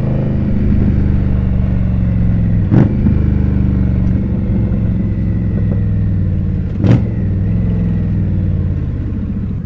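Indian Scout's V-twin engine running steadily under way, its note shifting a little in pitch, with two short clicks about four seconds apart.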